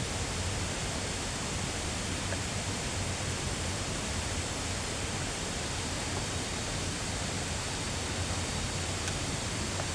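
A steady, even rushing noise with no distinct events, of the kind made by flowing water.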